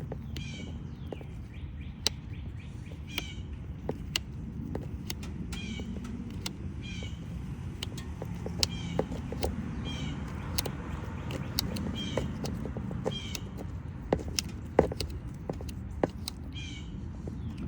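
Distilled flush water draining out of a car radiator: a steady low rush. Short, high chirping calls repeat about once a second, with scattered clicks.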